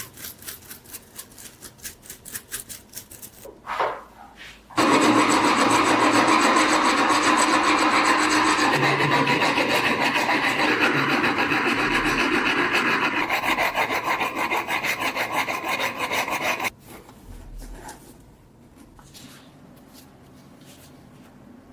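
Abrasive work on the rusted knife's steel. Quick rhythmic rubbing strokes come first, then about five seconds in a loud continuous grinding starts, runs for about twelve seconds and cuts off suddenly, followed by a few lighter strokes.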